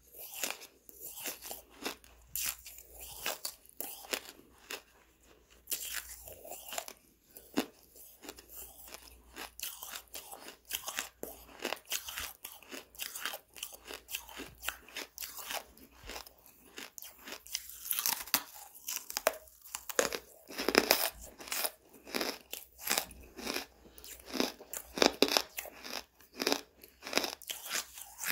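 Soft charcoal being bitten and chewed, a steady run of many irregular, crisp crunches. The crunching grows busier and louder in the second half.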